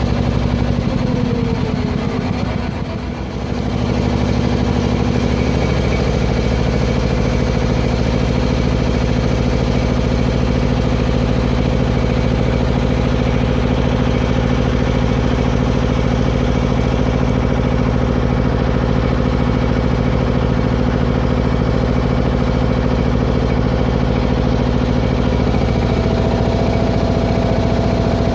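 Klotok river-taxi boat's inboard engine running steadily, with a short dip in level about three seconds in.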